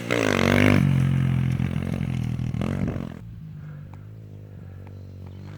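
Polini XP4 110cc pit bike engine revving, its pitch swinging up and down, then about three seconds in it drops to a quieter, steady low running.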